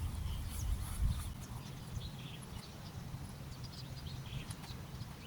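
Wind rumbling on the microphone, heaviest in the first second or so, with faint scattered bird chirps in the background.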